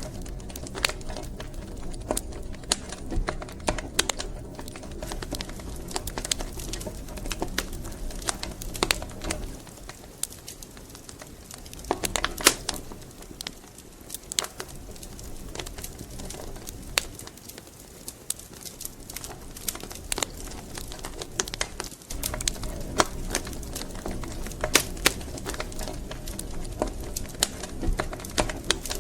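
Wood fire crackling in a fireplace: irregular sharp pops and snaps over a low rumble of burning. The low rumble thins out about a third of the way in and comes back suddenly about three quarters through.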